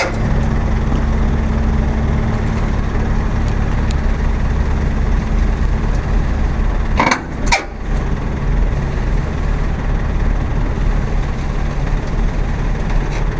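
MAN truck's diesel engine idling with a steady low hum. Two short knocks come about seven seconds in.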